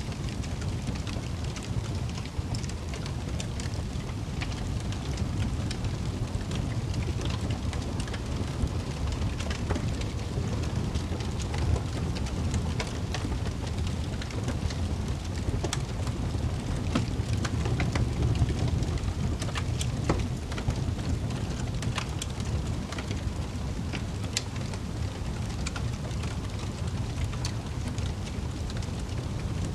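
Log fire burning in a fireplace: a low steady rumble with scattered sharp crackles and pops.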